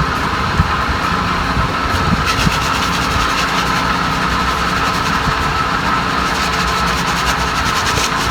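An engine running steadily at an even level, with a constant whine above its low rumble.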